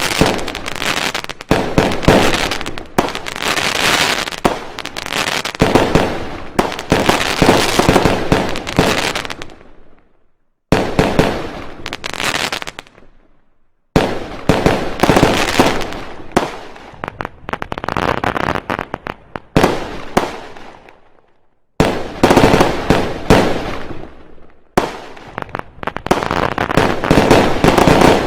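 Fireworks going off in dense volleys of rapid bangs and crackles. The volleys come in several stretches, each broken off by an abrupt, brief silence.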